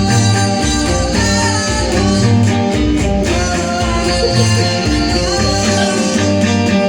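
A band playing live: guitar over a repeating bass line, with a singing voice.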